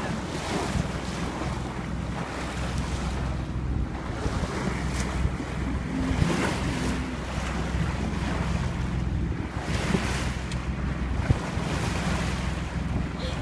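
Boat engine running steadily, with water rushing past and wind buffeting the microphone.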